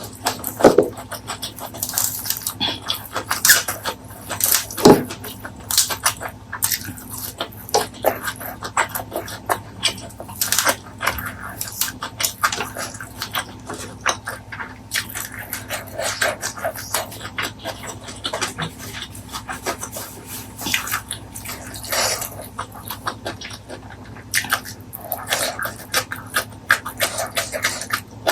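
Close-miked eating sounds: steady, irregular chewing with wet mouth clicks and smacks as a person eats.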